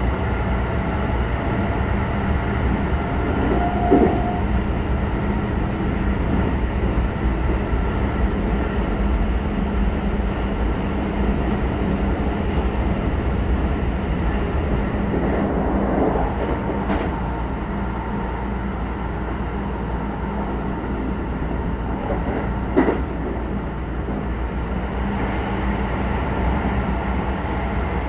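Keisei 3100 series electric train running along the line, heard inside the passenger car: steady rumble of wheels on rail, with a few brief knocks about 4, 16 and 23 seconds in.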